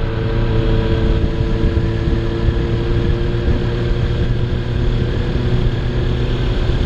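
Kawasaki Ninja 300 parallel-twin motorcycle engine running at a steady speed while riding, without revving.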